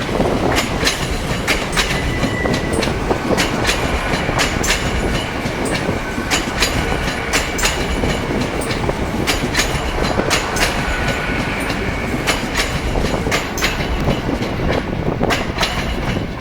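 A train running past close by, its wheels clacking over rail joints in a steady run of sharp clicks over continuous rail noise, with a faint thin squeal from the wheels at times.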